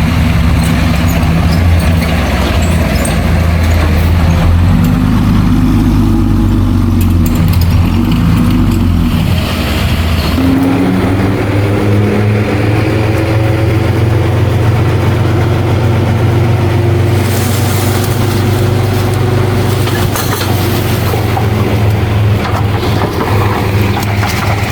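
Heavy earthmoving machinery's diesel engines running under load; about ten seconds in the engine note climbs as it revs up, and a stretch of high hissing comes later.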